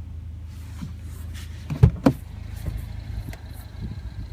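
Two heavy thumps about a quarter second apart, a car's rear door being worked as its occupant gets out, over a steady low hum, with a few lighter knocks and rustles afterwards.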